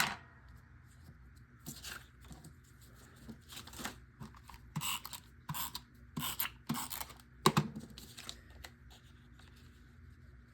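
Scrapbook paper being handled and trimmed: a sharp click at the start, then scattered short rustles and crinkles of paper, the loudest about seven and a half seconds in.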